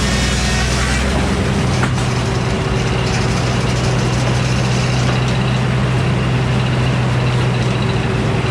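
Old Frick circular sawmill running, its power unit's engine droning steadily under the whine and hiss of the mill. About a second in, the engine note changes and settles into a new steady tone.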